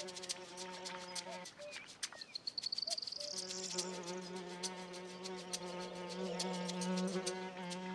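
A fly buzzing in flight, a steady droning hum that stops about a second and a half in and starts again about two seconds later. A faint rising high whistle is heard during the pause.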